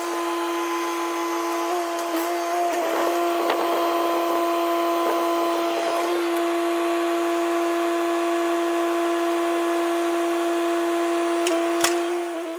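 Machinery recording sped up eight times, turned into a steady, high-pitched mechanical whine with a noisy hiss and a few scattered clicks. It fades out at the very end.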